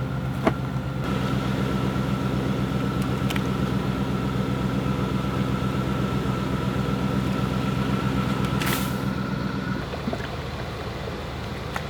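A large vehicle's engine idling steadily with a thin whine, dropping away about ten seconds in. There is a sharp click about half a second in, and a brief hiss near the end.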